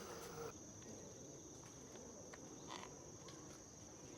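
Faint, steady high-pitched trill of crickets. A lower steady hum cuts off about half a second in.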